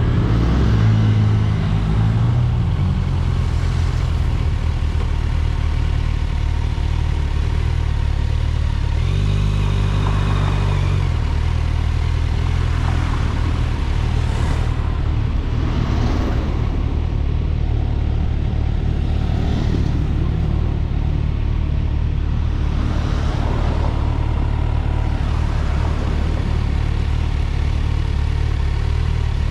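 Kawasaki Ninja 1000SX inline-four engine running with a steady low drone, its note briefly stronger about ten seconds in.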